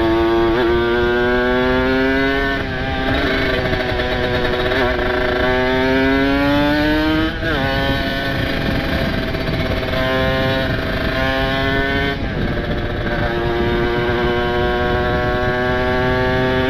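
Kawasaki Ninja RR's single-cylinder two-stroke engine pulling through the gears on an open exhaust. Its note climbs steadily and then drops sharply at gear changes, twice clearly, about halfway through and again a few seconds later.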